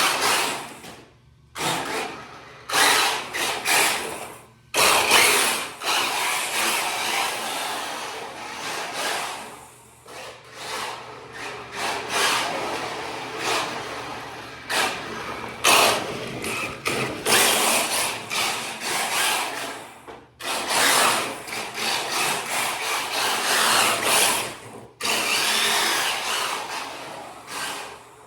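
Kyosho Fazer MK2 RC drift car with a Traxxas brushless motor driving in short irregular bursts: a hissing, whirring noise that swells and drops away, with brief gaps about a second and a half in, near five seconds, and around twenty and twenty-five seconds.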